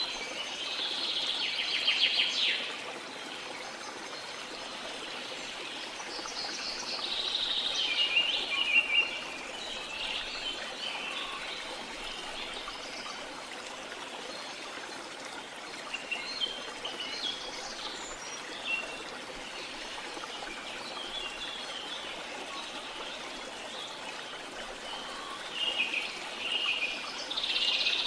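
Birds calling and singing in repeated bursts of chirps and trills over a steady trickle of running water.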